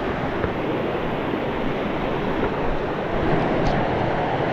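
Cascading waterfall water rushing steadily.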